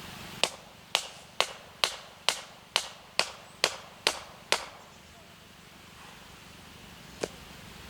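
A run of ten sharp knocks in an even rhythm, about two a second, then a pause and one more knock near the end.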